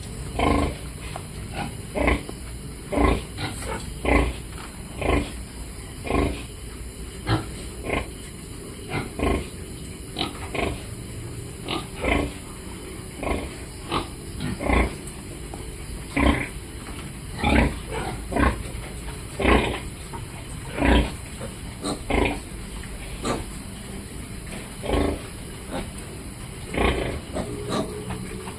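Piglets grunting as they feed: short grunts, irregular, about one a second.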